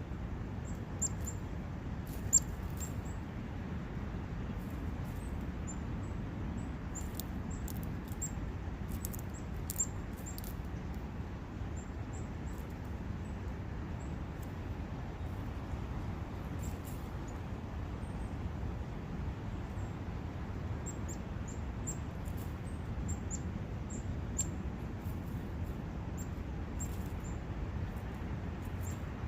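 Forest ambience: a steady low rush of a brook, with small birds giving many short, very high chirps and ticks over it, the sharpest a little over two seconds in.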